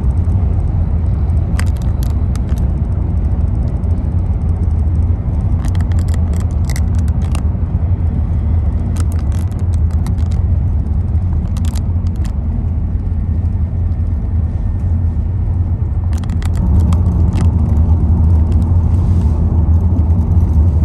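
Car driving, heard from inside the cabin: a steady low road and engine rumble, with short clusters of clicks and rattles now and then. It grows a little louder about sixteen seconds in.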